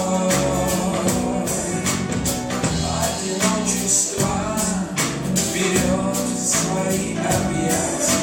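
Live band playing a song, with singing over a steady beat.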